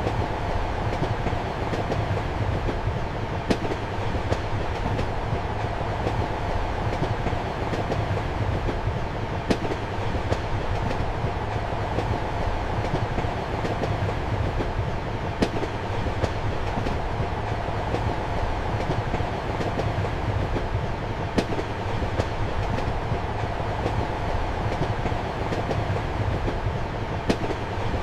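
Steady rumble of a moving passenger train heard from inside a compartment. A sharp click of the wheels crossing rail joints stands out about every six seconds, with fainter clacks between.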